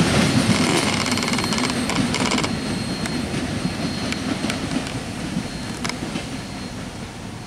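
Tail end of a freight train rolling past and away: steady wheel rumble on the rails with sharp clicks over the rail joints and a thin high squeal that stops about two and a half seconds in. The sound fades steadily as the last cars recede.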